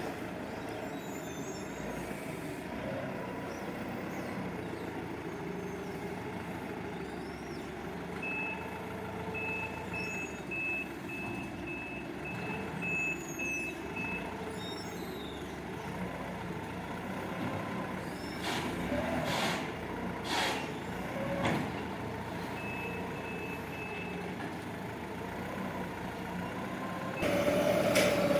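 A counterbalance forklift runs with a steady engine hum, and its reversing alarm beeps in two runs of high, evenly spaced beeps. In the second half there are a few sharp knocks, and near the end a louder, pitched hum comes in.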